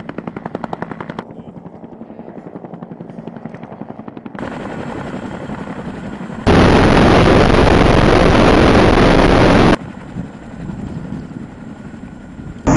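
Helicopter rotor beating in a fast, even pulse. Partway through, a much louder, even rushing noise comes in abruptly for about three seconds and cuts off just as abruptly.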